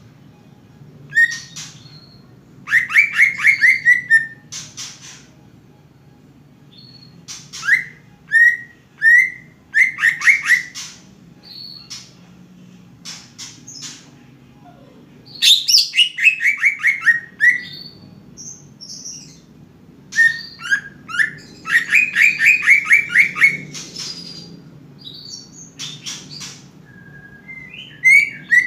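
Cucak ijo (green leafbird) singing in repeated bouts: fast trills of falling notes and sharp chirps, with pauses of a second or two between phrases, over a faint low hum.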